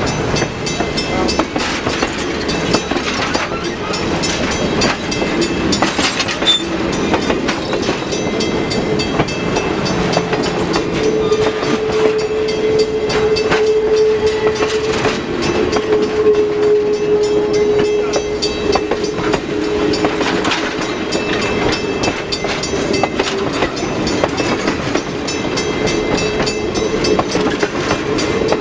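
Excursion train rolling past, its wheels clicking over the rail joints. A long steady tone is held for several seconds in the middle.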